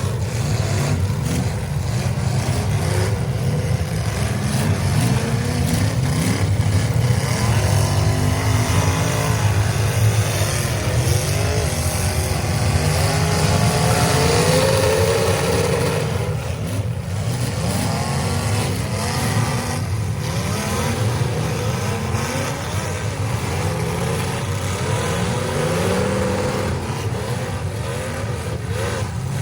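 Several demolition derby cars' engines running and revving at once, their pitches rising and falling over one another in a continuous din.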